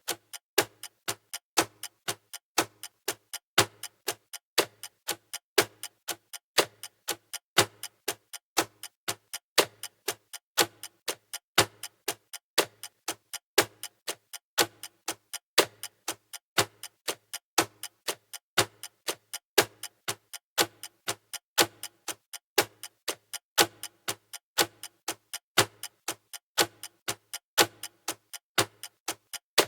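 Countdown timer's clock-tick sound effect: sharp, evenly spaced ticks, several a second, with no other sound.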